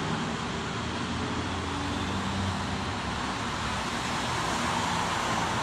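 Motor vehicle noise: an engine running low and steady under a continuous hiss of road or water noise.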